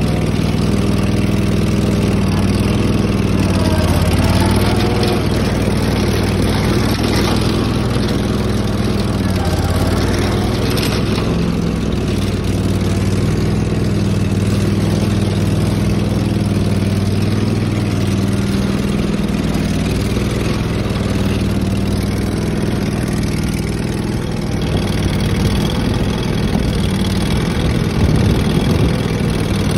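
Tractor engine running steadily, its pitch shifting a few times as the engine speed changes.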